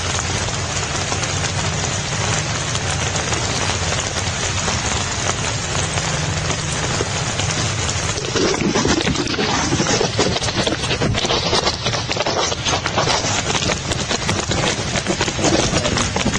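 Steady rain falling, a dense, even hiss; about eight seconds in it turns coarser and slightly louder.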